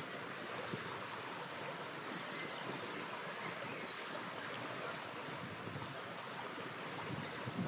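River water flowing steadily, with a few sharp crackles from a campfire and faint, short high chirps repeating about once a second.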